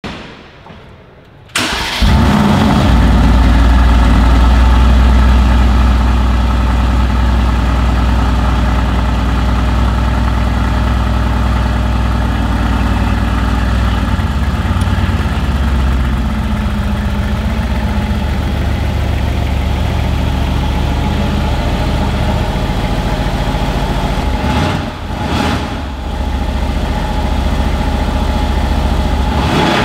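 Mercedes-AMG GT R's 4.0-litre twin-turbo V8 starting about a second and a half in with a loud flare of revs, then settling into a steady idle.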